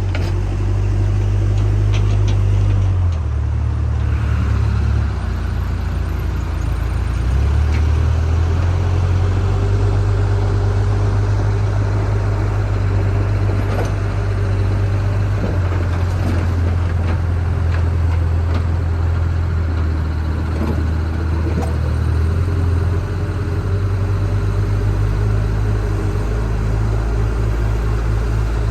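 Diesel engine of a JCB backhoe loader running under varying load, its low drone stepping up and down every few seconds, with occasional knocks.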